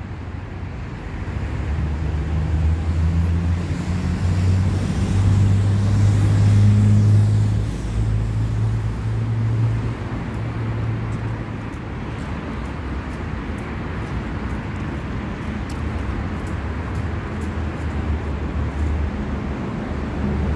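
City street traffic: motor vehicle engines running and passing with tyre noise, the loudest one going by a few seconds in, then easing to a steadier rumble.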